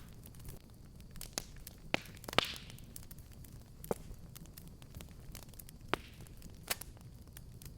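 Fire in a fireplace crackling: sharp pops at irregular intervals over a low, steady rumble of burning. The loudest pop comes about two and a half seconds in, with a brief hiss after it.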